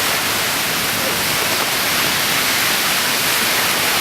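Heavy rain pouring down in a storm: a steady, loud hiss with no distinct drops or gusts standing out.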